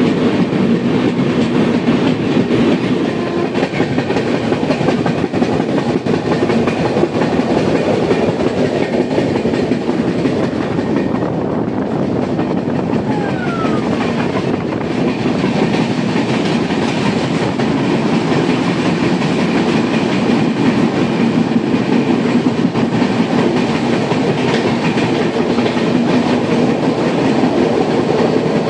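Indian Railways express passenger train running steadily along the track, the noise of its wheels on the rails continuous and even.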